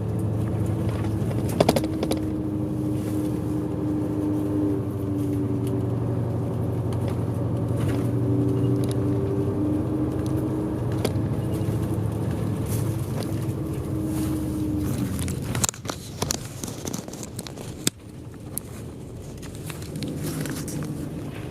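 Bus engine and road noise heard from inside the cabin, running steadily with an even drone. About three-quarters of the way through the drone drops away abruptly, leaving a quieter stretch with scattered clicks and knocks, then the sound builds again near the end.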